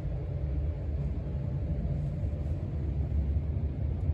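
Casablanca Stealth ceiling fan running on speed 2: a steady low rumble of the motor and the air moved by the blades.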